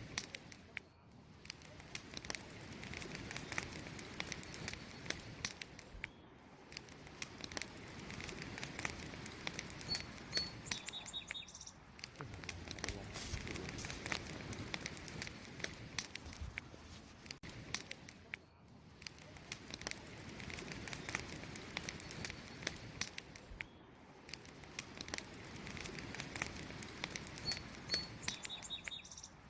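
Wood fire crackling with dense, irregular pops, swelling and easing in waves. Short bird chirps come in twice, about a third of the way in and near the end.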